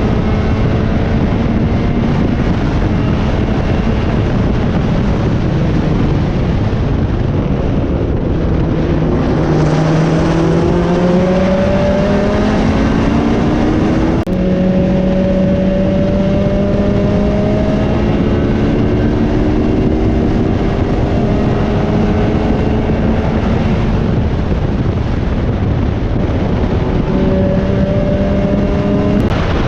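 Datsun 1600 Roadster race car engine running hard at speed on a track. It is continuously loud, with the pitch climbing under acceleration, holding high, then dropping and climbing again several times.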